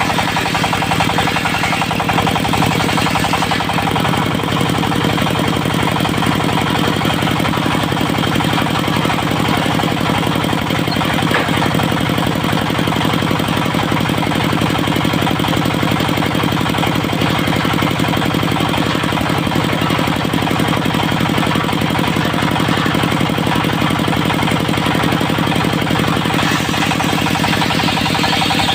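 Diesel engine of a mobile circular sawmill running steadily with a fast, even knocking beat. A brighter hiss on top of it fades about three and a half seconds in and returns near the end.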